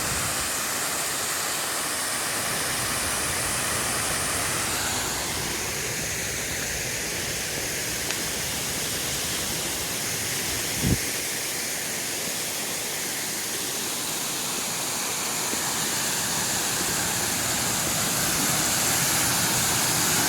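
Waterfall: a steady rush of falling water, with one short knock near the middle.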